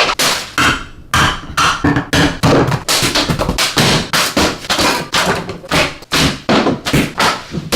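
A rapid, irregular series of loud knocks and thumps, about two to three a second, like something being struck hard and repeatedly against a surface.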